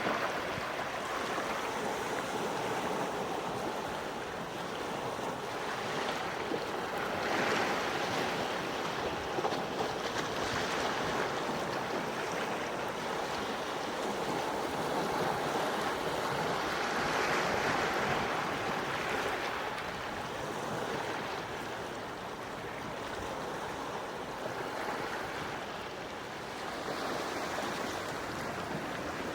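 Gentle sea waves washing onto a shore, an even rushing wash that swells and eases every few seconds.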